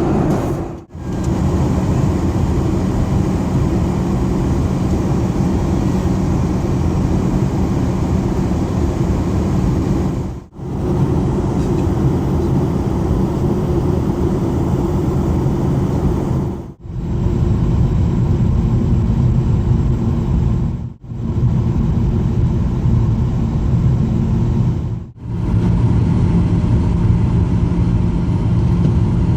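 Steady cabin drone of a Boeing 737-800 in flight: CFM56-7B jet engines and airflow, a constant rumble with a low hum. It is broken by several short dips to near silence where clips are joined.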